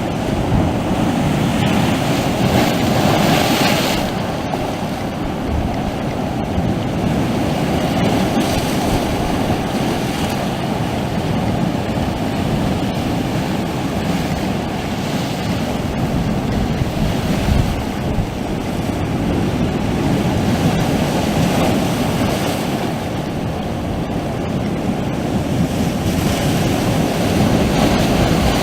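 Sea waves washing onto the shore, a continuous rush that swells with each surge of water, most noticeably a few seconds in and again near the end.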